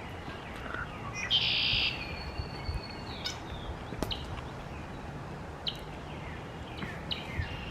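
Small birds chirping outdoors: short, high, falling chirps several times. About a second and a half in there is a louder harsh high sound that trails off into a thin, steady whistle.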